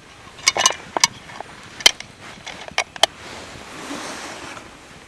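A handful of sharp clicks and knocks, the loudest just under two seconds in, followed by a short rustling noise.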